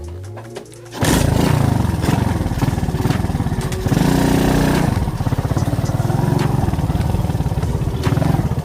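Alpha moped's single-cylinder four-stroke engine running under way. It comes in loud about a second in, and the revs rise briefly around four seconds in.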